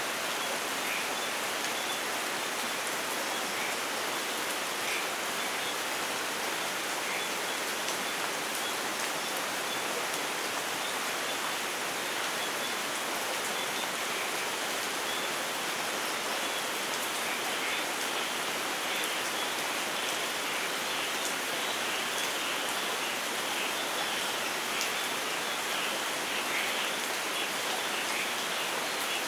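Steady rainfall: a dense, even hiss of rain on foliage and ground, with no thunder. Scattered faint high ticks grow more frequent in the second half.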